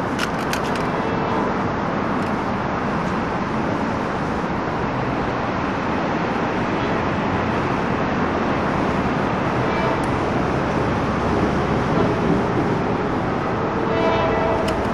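Steady rumble of traffic and an approaching commuter train, with a brief higher tone near the end.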